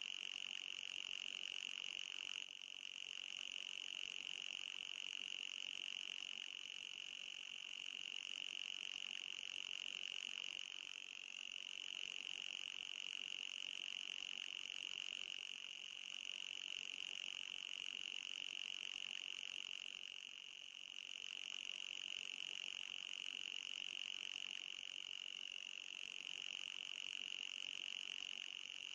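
Anti-mosquito repellent sound effect: a steady, high-pitched buzz that dips slightly a few times.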